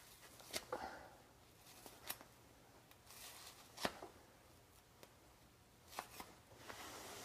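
Faint rustling and tearing as old, oil-soaked fiberglass silencer packing is cut with a knife and pulled apart by hand, with four sharp clicks spread through it.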